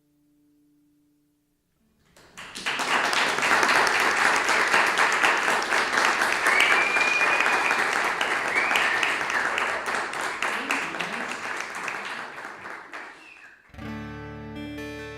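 The last note of the song rings out, then after a short silence an audience applauds with a few cheers for about eleven seconds, fading near the end. Acoustic guitar music starts suddenly in the last second or so.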